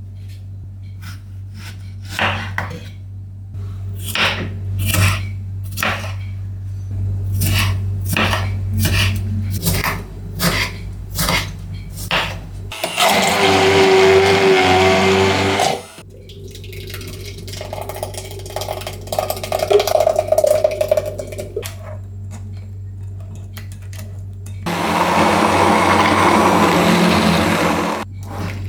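An electric blender running in two bursts of about three seconds each, blending tomatoes and bread for salmorejo. Before it, a run of sharp knocks at roughly one or two a second.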